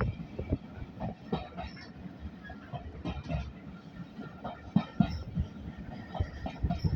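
Old railway carriage in motion: a steady low rumble from the wheels on the track, with irregular knocks and rattles throughout.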